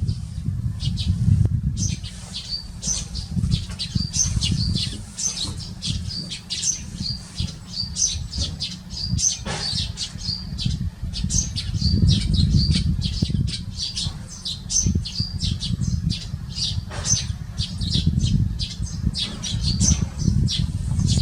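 A flock of Eurasian tree sparrows chirping busily, short calls overlapping almost without pause, over a steady low rumble.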